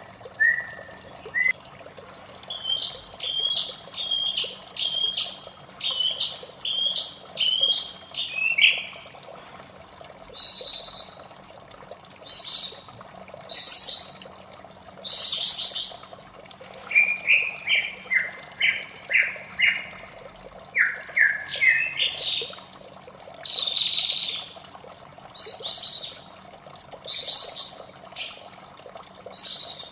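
White-rumped shama singing: series of short, clear whistled notes repeated in quick runs, some phrases stepping or sweeping downward, changing from phrase to phrase. A steady trickle of running water goes on underneath.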